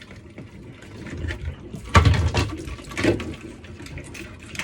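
Irregular metal knocks and clanks of work on a water heater's gas valve, the loudest about two seconds in, over a little water trickling from the tank.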